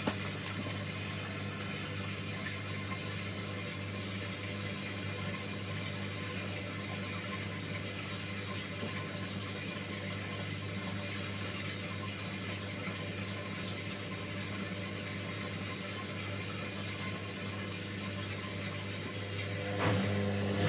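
Washing machine running with a steady hum and the sound of water moving in the machine. Just before the end it gets louder as a motor whir picks up.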